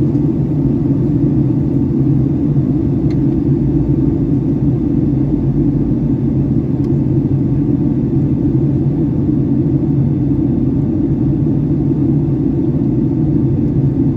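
Steady low rumble of a Boeing 757-300's engines and airflow heard inside the passenger cabin, with a faint steady hum running through it.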